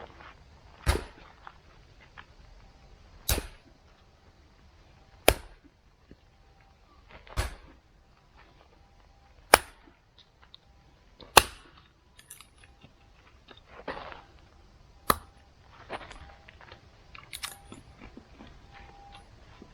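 A series of sharp knocks, about one every two seconds and uneven in strength, with softer scraping and rustling between them.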